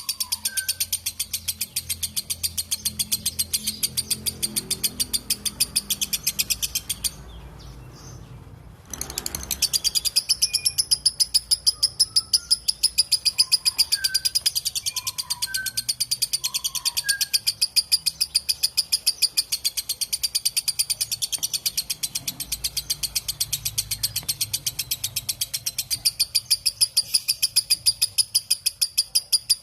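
Lovebird giving its long 'ngekek' chatter: a continuous rapid string of shrill, high notes, about six a second. It breaks off for about two seconds near a third of the way in, then resumes. Faint chirps from other birds sound underneath.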